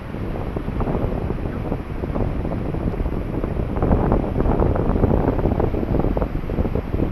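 Wind buffeting the microphone in gusts, a dense low rumble that grows stronger about halfway through.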